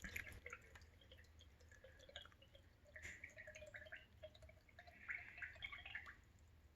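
Faint dripping and trickling of water running into a sump pump pit, with small irregular drips throughout.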